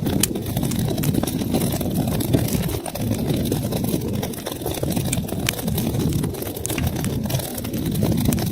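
Wood fire burning in a fireplace: a steady low rumble of flames with many small sharp crackles and pops scattered throughout.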